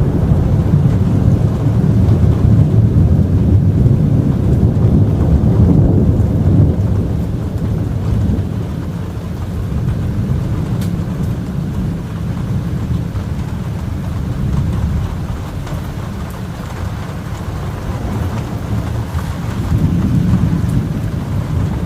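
Long rolling rumble of thunder from a very close lightning strike. It is loudest over the first several seconds, dies down, and swells once more near the end.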